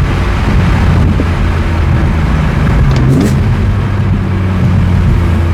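BMW E46 M3's S54 inline-six running under steady driving with its Valvetronic exhaust valve closed, a steady low drone. It rises briefly in pitch about three seconds in.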